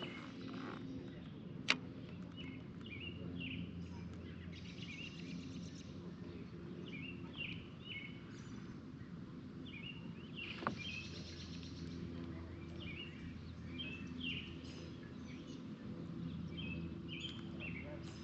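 A songbird singing a short chirping phrase over and over, about every two seconds, over a steady low outdoor background. A sharp click sounds about two seconds in and another around the middle.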